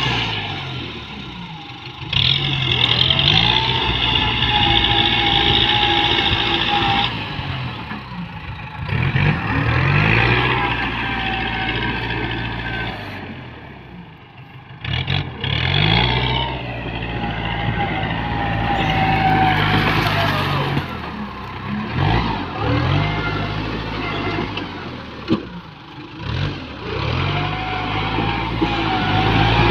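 ZT 155 tractor engine running under changing load, its pitch rising and falling as it revs, with several abrupt changes in level and pitch.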